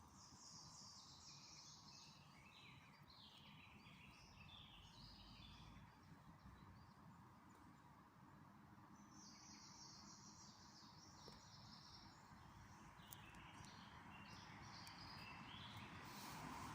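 Songbirds singing faintly in two long runs of quick high twittering notes, with a pause of about two seconds between them, over a steady low background hum.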